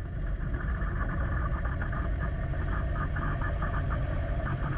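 Engine of a tracked dump truck running steadily under load as it drives, with a fast rattling clatter of the tracks over the low engine rumble.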